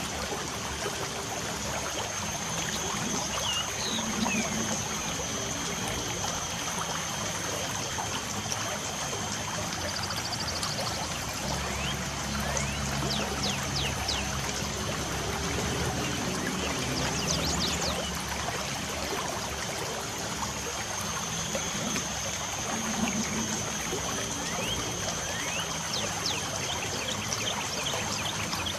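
Light rain falling with a steady trickle of water. Birds chirp now and then, in short quick calls bunched around the middle and near the end, over a thin, steady high-pitched tone.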